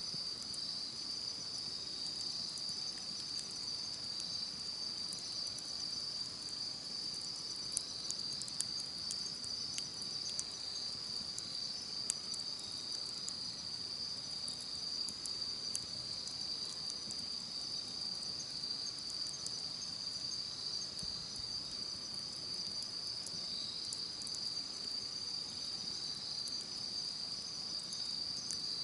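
Steady high-pitched chorus of singing insects, crickets by the sound, with scattered sharp crackles and pops from a wood campfire, most frequent in the first half.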